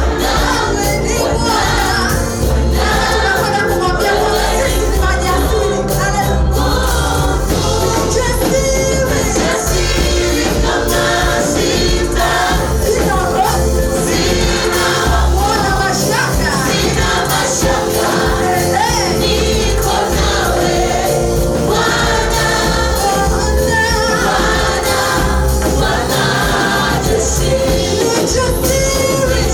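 A choir singing a gospel praise song with instrumental backing and a steady beat.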